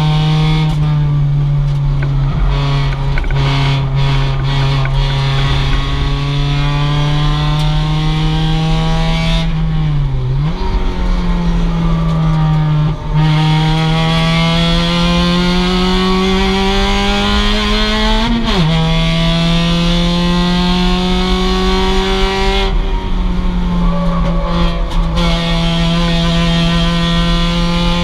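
2006 Mazda MX-5's stock four-cylinder engine running hard at high revs under race load. The pitch dips about ten seconds in, climbs slowly, then drops sharply at a gear change a little past halfway, and holds steady again.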